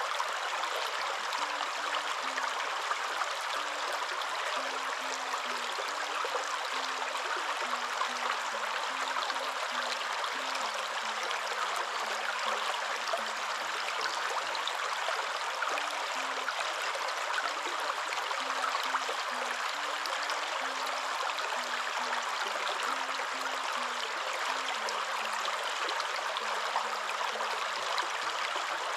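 Waterfall: a steady, even rush of falling water. Faint low notes stepping up and down in pitch sit far beneath it.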